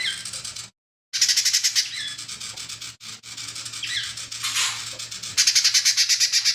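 Cucak ijo mini (leafbird) singing a song of fast, rattling trills and short sliding chirps, mimicking other birds. The song is broken by abrupt silent gaps, and a faint low hum runs under it.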